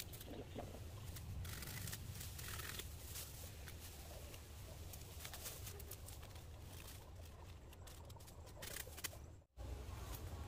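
Scratchy rustling of bamboo stalks and dry leaves being handled and dragged through brush, in short irregular bursts over a low rumble. The sound cuts out briefly near the end.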